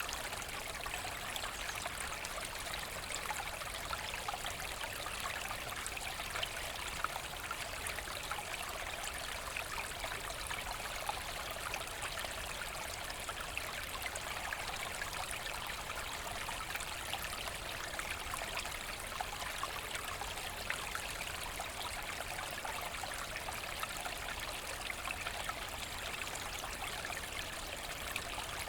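Forest brook flowing steadily: an even babble of water splashing and trickling over stones, with no pause or change.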